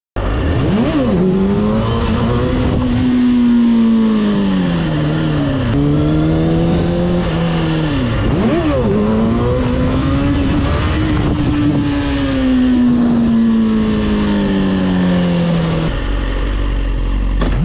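Motorcycle engine under way, its pitch rising and falling with quick sharp changes a few times, then slowly falling and settling to a steady lower note near the end.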